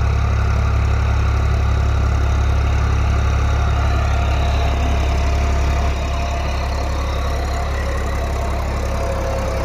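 Old Eicher 5660 tractor's diesel engine running steadily while pulling a rotavator through the soil. It drops slightly in loudness about six seconds in.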